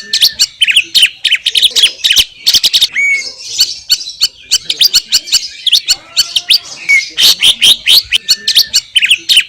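Green leafbird (cucak ijo) singing a fast, unbroken stream of sharp chirps and short whistled slurs, with a couple of brief softer gaps, about three and six seconds in.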